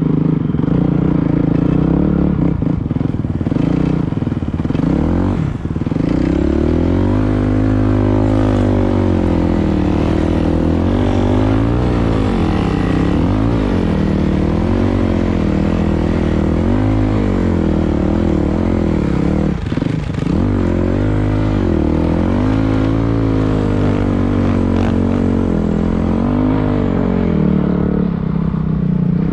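Dirt bike engine being ridden hard, its revs rising and falling again and again as the throttle is worked, with brief throttle-offs about five seconds in and again near twenty seconds.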